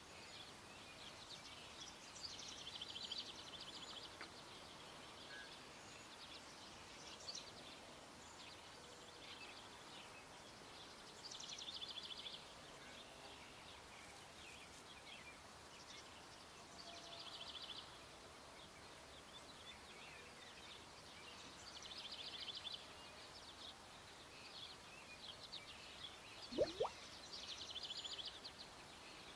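Small birds chirping faintly in short trills every few seconds over quiet outdoor background noise. Near the end comes one short rising sound, the loudest moment.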